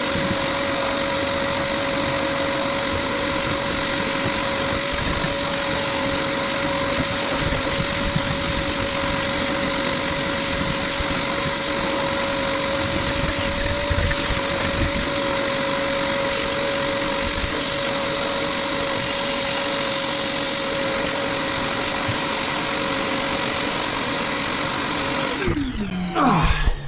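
Vacuum cleaner running steadily with a constant motor whine, sucking out the engine bay; near the end it is switched off and its motor winds down with a quickly falling pitch.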